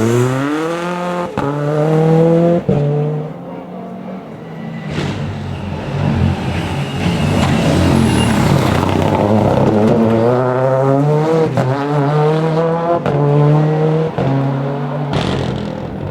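Rally car engine revving hard as the car accelerates, its pitch climbing through the gears with quick breaks at each upshift. The engine eases off about three seconds in, then pulls hard again through several more shifts.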